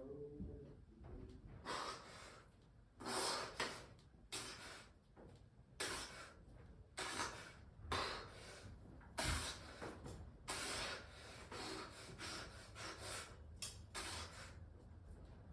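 A person breathing hard through the mouth, short forceful breaths about one a second, straining through a long set of bench press reps.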